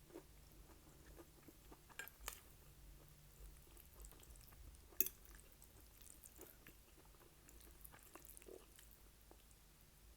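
Quiet, close-miked chewing and wet mouth sounds of someone eating, with a few sharp clicks; the sharpest comes about five seconds in.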